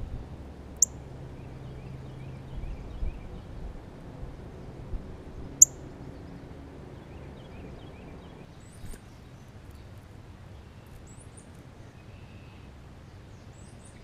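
Birds calling at a woodland feeder: two sharp, loud, high chips about five seconds apart, with fainter distant bird notes and trills, over a steady low background rush.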